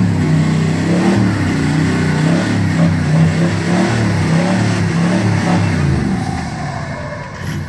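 A 4x4's engine revving up and down over and over as it pulls through deep mud, its pitch rising and falling every half second or so, then easing off about six seconds in.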